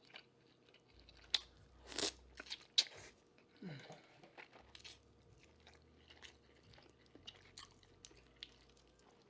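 Close-miked biting and chewing of crunchy food, with a few sharp crunches in the first three seconds, then quieter chewing and mouth clicks.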